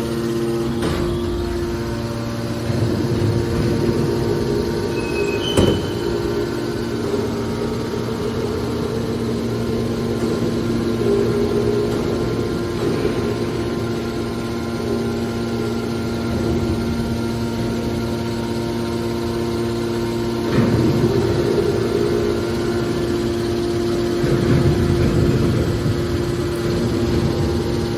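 Hydraulic metal baler running: a steady hum from its hydraulic power unit, with several louder, rougher stretches and a single sharp clank about five and a half seconds in.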